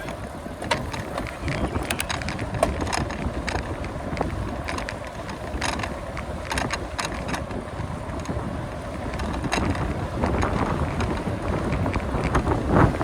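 Wind buffeting the microphone of a camera on a moving bicycle, over a steady low rumble, with scattered sharp clicks and rattles.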